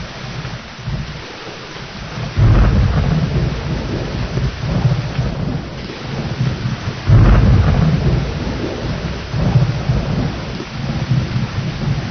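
Steady rain with rolling thunder. A deep rumble breaks in suddenly about two and a half seconds in and again about seven seconds in, each time rolling on in smaller swells under the rain.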